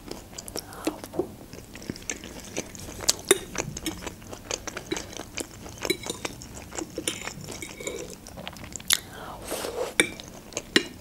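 A person chewing a mouthful of Olivier salad close to the microphone: irregular wet mouth clicks and smacks, a few louder ones near the end, with now and then a fork tapping a china plate.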